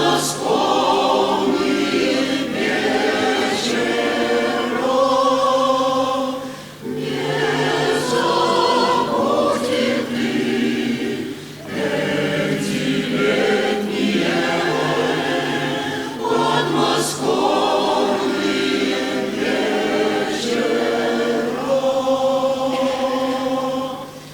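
A choir singing a song in long phrases, with short breaks about every five seconds.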